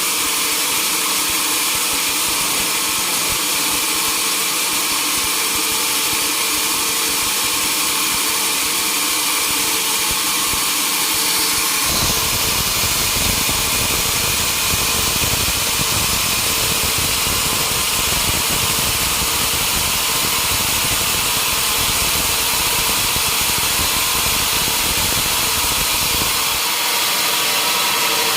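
Sawmill machinery running steadily with a constant tone and a strong hiss. About twelve seconds in a deeper rumble joins, lasting until shortly before the end.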